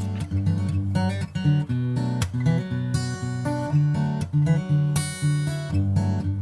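Background music: a strummed and picked acoustic guitar arrangement.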